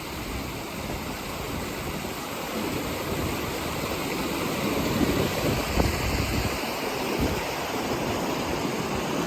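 Floodwater rushing down a driveway turned into a torrent by heavy rain: a steady noise of fast-running water.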